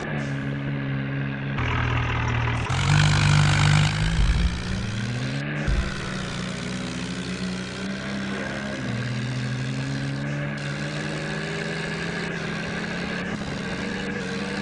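Tractor diesel engine running, revving harder and louder about two seconds in with its pitch climbing, then settling into a steady run.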